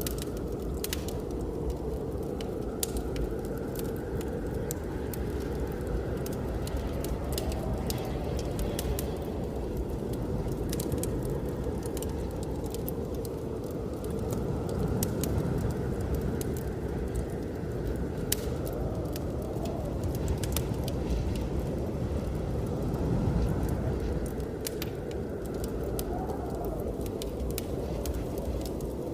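Wood fire crackling and popping in a fireplace, with frequent sharp snaps, over a steady low rush of blizzard wind that rises and falls in slow gusts with a faint howl.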